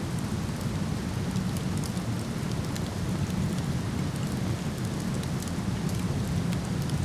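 Steady rushing of a waterfall, deep and even, with small sharp crackles of burning wood from a campfire scattered through it.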